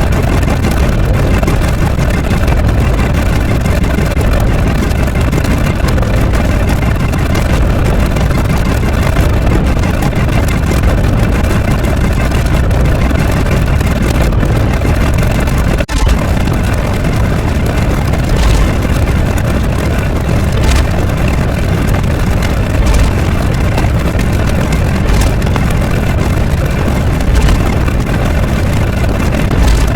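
Loud, steady engine-like rumble that barely changes, cut by a brief dropout about sixteen seconds in.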